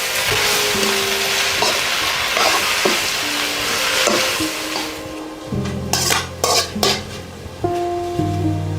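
Bamboo shoots and fermented soybean being stir-fried in a pan: a steady sizzle with the spatula stirring and clicking against the pan. The sizzle dies down about halfway through, and a few sharp scrapes follow in the middle.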